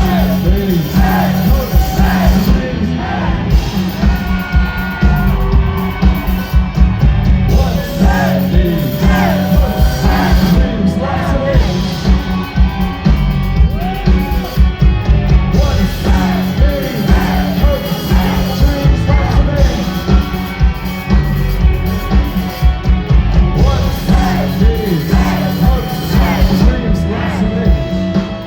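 Live post-punk band playing loudly, with a heavy pulsing bass and drums, gliding lead lines and some yelled vocals over them.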